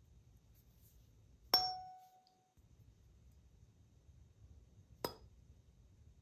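A tuning fork struck, ringing a clear single tone for about a second, followed some three and a half seconds later by a second, shorter metallic clink.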